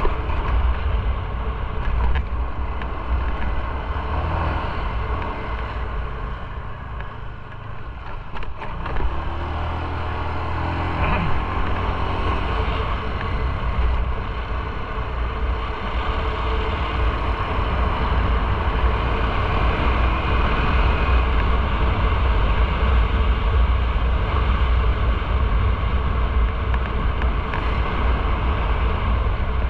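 Motorcycle running on the road with heavy wind rumble on the microphone. It eases off about a quarter of the way in, then picks up again with a short rise in engine pitch.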